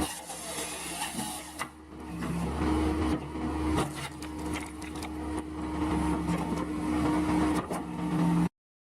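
Firewood processor running steadily under engine power, with a low hum and scattered sharp knocks and clicks from the machine and the wood. The sound cuts off abruptly near the end.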